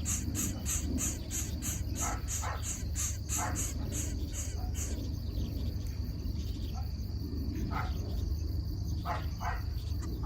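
Outdoor insect chorus: a high-pitched chirping pulsing about four times a second that stops about halfway through, over a steady high drone, with short calls scattered throughout and a low rumble underneath.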